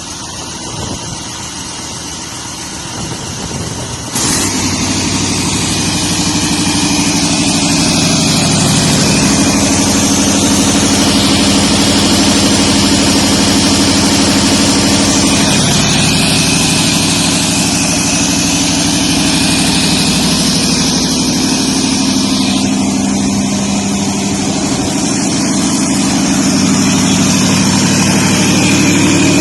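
Liebherr D 9408 TI-E V8 turbo diesel engine starting about four seconds in with a sudden jump in loudness, then running steadily, its speed shifting down and back up a few times.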